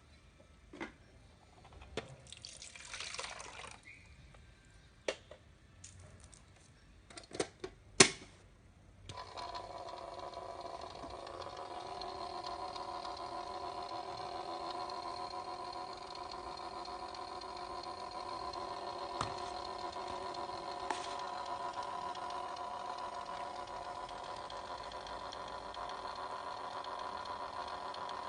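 Toy washing machine: a few light plastic clicks and handling noises, a sharp click about eight seconds in, then its small electric motor starts about a second later and runs with a steady, even hum.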